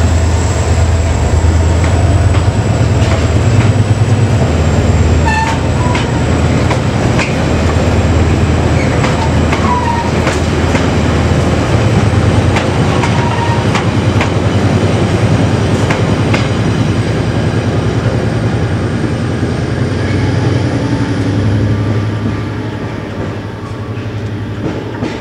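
Ballast train of loaded hopper wagons rolling past at low speed, a steady low rumble with the wheels clicking over the rail joints and a few short wheel squeaks. The rumble fades away near the end as the last wagon passes.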